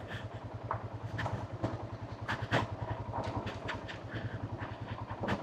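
Motorcycle engine running at low revs with a steady, even pulse as the bike rolls down a steep rocky descent, with scattered sharp clicks and knocks over it.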